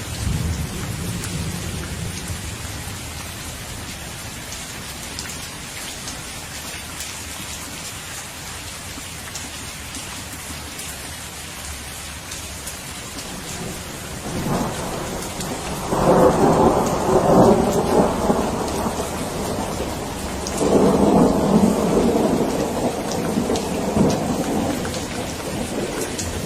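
Steady rain falling, with rolling thunder: a low rumble at the start, then two loud rumbles in the second half.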